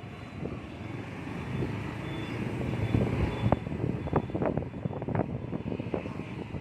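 Road traffic noise: motor vehicles running and passing, with a low rumble that grows around three seconds in.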